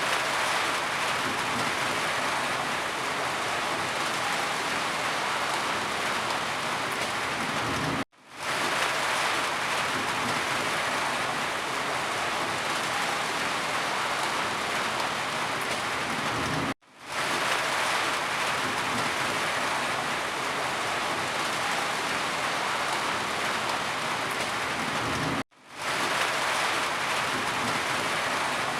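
Steady heavy rain, a dense even hiss of drops. It cuts out for a moment and fades straight back in three times, about every eight to nine seconds, where the recording loops.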